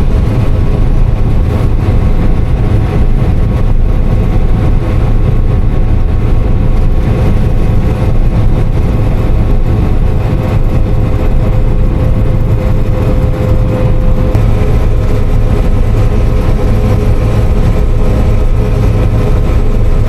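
John Deere combine harvester running steadily while harvesting beans: a loud, even engine drone with a steady whine over it.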